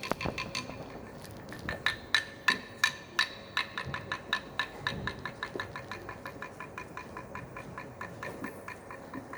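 Rhythmic percussive clicks with a wooden, ringing tone, about three a second, keeping a steady beat that fades in the second half.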